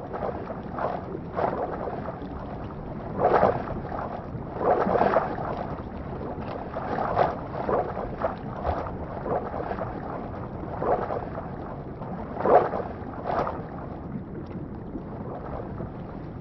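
Water splashing in irregular strokes, as from paddling or rowing a small boat, over a steady hiss of wind and water.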